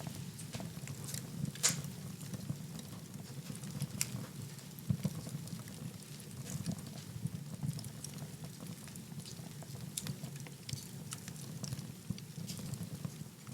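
Wood fire burning in a fireplace: a low steady flame rumble with irregular sharp crackles and pops, two of them louder, near the start and about four seconds in.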